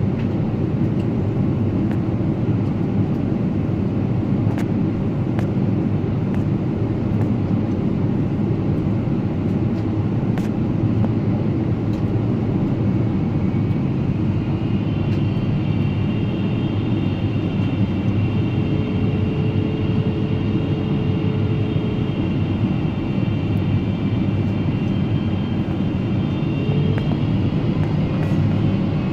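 Steady cabin noise inside a Boeing 777-300ER in flight: a constant deep drone. Faint high whining tones come in about halfway through.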